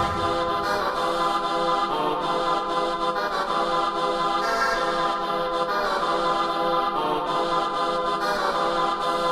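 Electronic rave music from a 1994 German makina-style track: sustained chords without a beat, shifting to new chords about every two and a half seconds.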